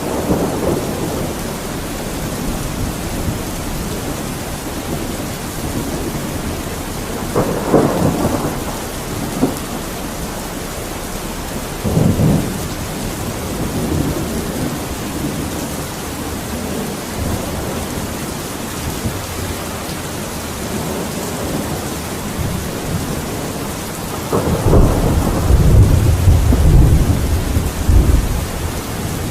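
Steady heavy rain with rolling thunder: rumbles swell up about a third of the way in and again briefly a little later, and a long, loud, deep rumble builds near the end.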